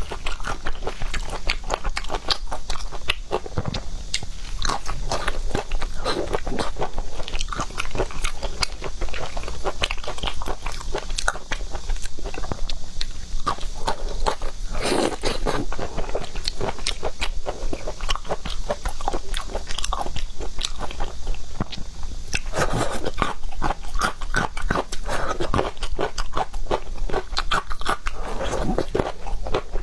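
A person chewing and biting seafood with steady wet, crunchy, clicking mouth sounds.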